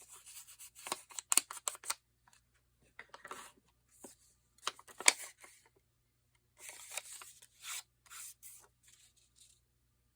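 Paper being cut with scissors and handled: bouts of snipping and rustling with sharp clicks, broken by short pauses.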